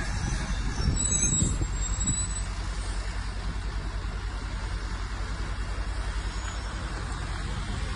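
Heavy diesel engine of a crawler bulldozer running with a steady low rumble, with a brief high-pitched metallic squeal about a second in.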